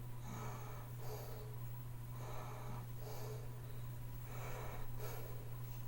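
A person breathing audibly through the nose close to the microphone, a short puff about once a second, over a steady low hum.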